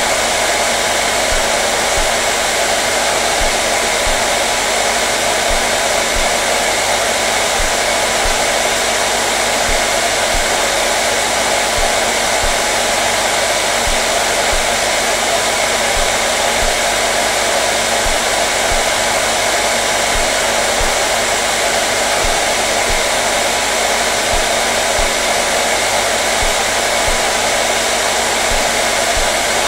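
Hair dryer blowing steadily, an even rushing whoosh of air over a constant motor hum with no change in speed.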